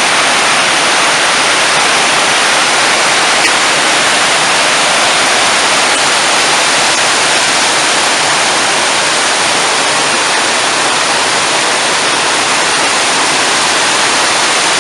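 Waterfall pouring steadily, a loud, unbroken rush of falling water.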